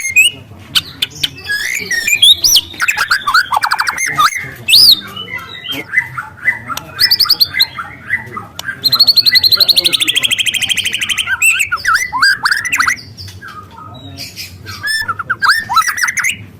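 White-rumped shama, a young bird just past its speckled stage, singing a loud, varied song of whistles and fast trills, with a long, rapid canary-like trill about nine seconds in.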